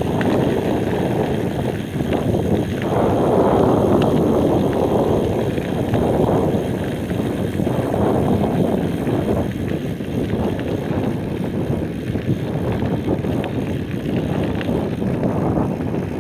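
Wind rushing over the microphone of a moving bicycle together with rolling rumble, a deep noise that swells and eases every second or two.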